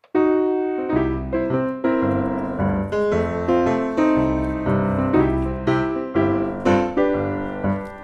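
Background piano music, notes struck at a moderate pace and left to ring.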